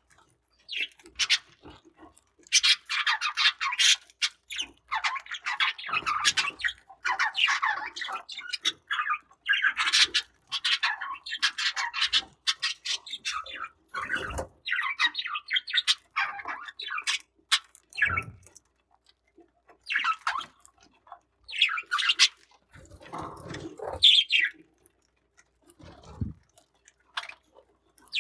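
Budgerigars chirping and chattering in irregular bursts, with a few sharp clicks among them.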